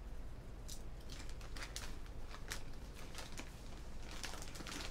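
Crunchy popcorn being chewed close to the microphone, with the snack bag crinkling in hand: an irregular scatter of short, crisp crunches and crackles, thickest near the end.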